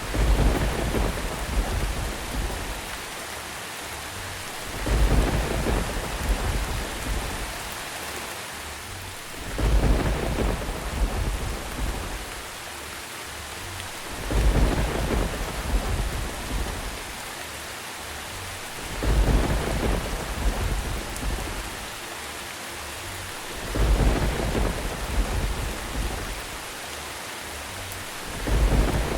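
Steady rain falling, with rumbles of thunder swelling up about every five seconds, seven times in all, at such even spacing that it sounds like a repeating loop.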